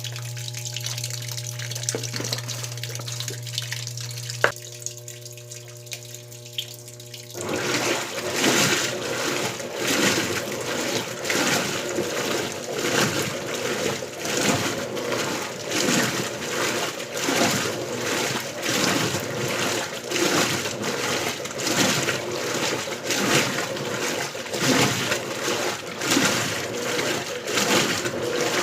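Electrolux LBU15 top-loading washing machine: water runs in with a steady hum for about seven seconds, then the filling stops and the agitator starts, sloshing and churning the wash water in regular strokes about once a second, on turbo agitation.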